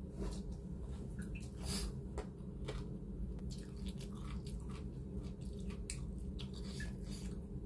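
A person chewing a mouthful of rice and shredded chicken eaten by hand, with wet smacking and clicking mouth sounds at irregular moments over a steady low hum.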